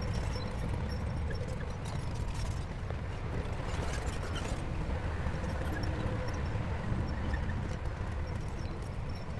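Heavy diesel engine running steadily, with faint scattered clinks over the deep engine sound.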